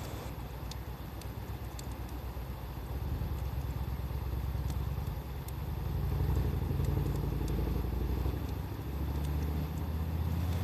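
A motor vehicle's engine runs with a low, pulsing rumble that grows louder about halfway through. Faint sharp crackles from a burning wood fire sound over it.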